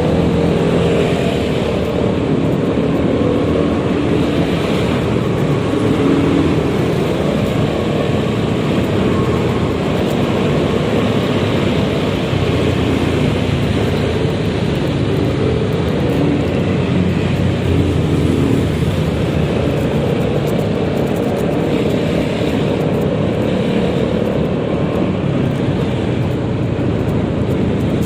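Riding sound on a Yamaha XMAX 300 scooter: steady wind rush on the helmet microphone over the hum of the engine and the surrounding traffic.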